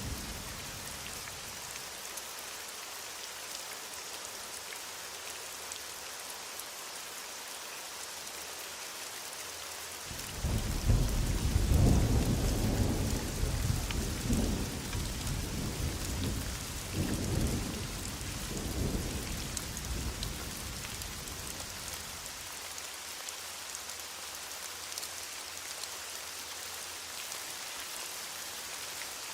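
Heavy rain falling steadily, with a long roll of thunder starting about ten seconds in, loudest at first and rumbling on in a few swells for about ten seconds before fading back under the rain.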